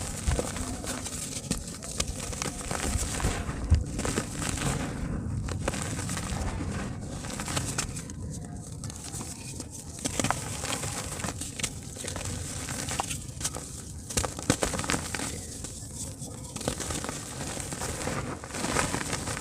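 Soft dirt chunks crumbling and breaking apart in water, a steady crackle of many small clicks and pops.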